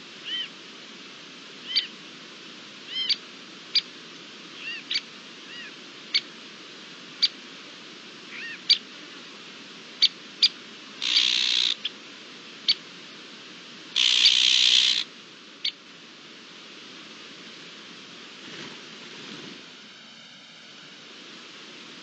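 Wild birds calling: sharp single call notes repeated at irregular intervals and a few short chirps. Two harsh rasping calls, the loudest sounds, come about 11 and 14 seconds in.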